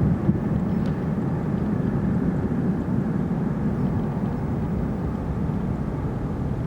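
Low, steady rumble of a Boeing 777-300 airliner's twin jet engines, easing off a little toward the end.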